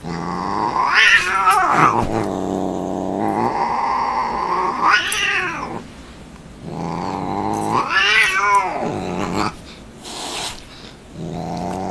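A cat yowling in long, drawn-out calls, three of them, each rising in pitch and then falling back, with a fourth starting near the end.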